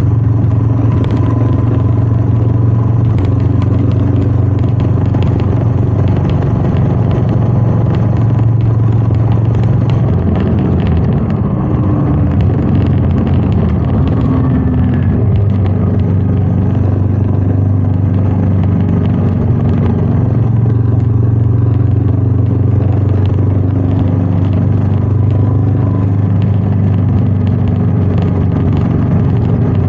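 Royal Enfield Meteor 350's 349 cc single-cylinder engine running under way, with wind noise over it. About ten seconds in the engine note drops and shifts, then picks back up and holds steady a few seconds later.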